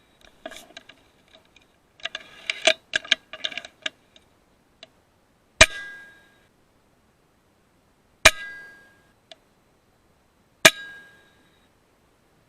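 A run of small clicks and clinks, then three sharp cracks about two and a half seconds apart from a .22 PCP air rifle, the FX Impact M3. Each crack carries a short metallic ring.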